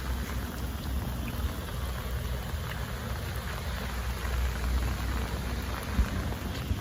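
Steady rain falling, with scattered drops ticking and a low rumble underneath. A single sharp tap stands out near the end.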